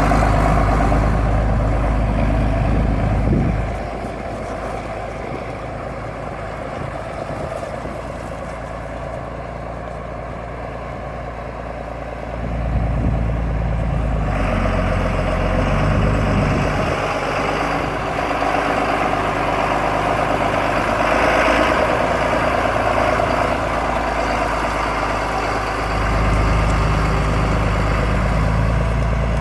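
John Deere 8430 four-wheel-drive tractor's turbocharged six-cylinder diesel engine idling steadily, its low note growing quieter and louder a few times.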